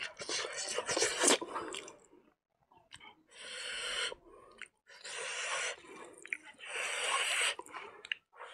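Close-miked chewing of a mouthful of rice and cooked silkworm larvae, with a run of wet, crunchy mouth noises in the first two seconds. A short pause follows, then several longer rushing noises, each lasting about a second.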